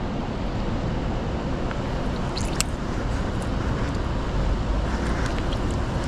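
Steady rush of river water with wind rumbling on the microphone, and a couple of faint sharp ticks about two and a half seconds in.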